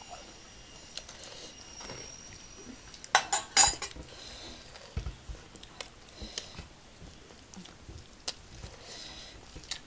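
Dishes and cutlery clinking during a meal: a quick run of loud clinks about three seconds in, then scattered lighter clicks and taps.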